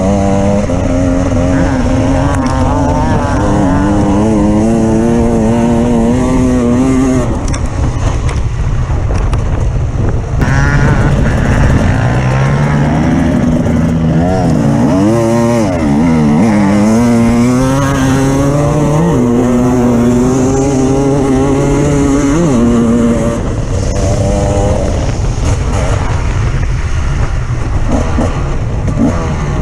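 Off-road vehicle engine running under changing load, its revs rising and falling over and over, with a run of quick up-and-down revs in the middle.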